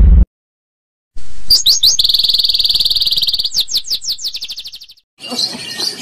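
A loud low sound cuts off right at the start. After about a second of silence a songbird sings a rapid, high-pitched trill for about four seconds, fading out near the end.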